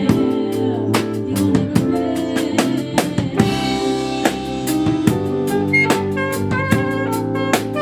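A live band playing an instrumental passage of gospel music. A drum kit, with snare, kick and rimshots, keeps a steady beat under held chords.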